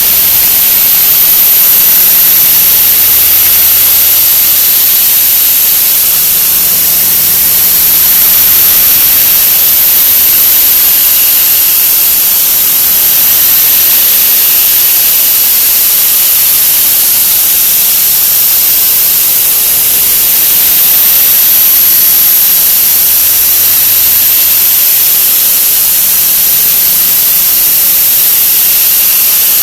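A 'wah wah' sound effect sped up so many times over that it has become a loud, steady rushing noise with a thin high whine on top.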